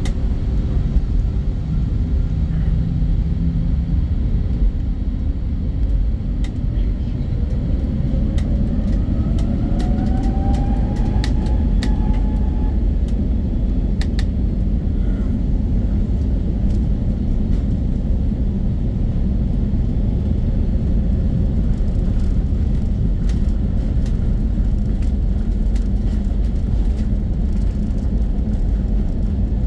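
Airbus A320neo's Pratt & Whitney PW1100G geared turbofans heard from inside the cabin: a steady, loud rumble. A whine rises in pitch between about nine and twelve seconds in as the engines spool up.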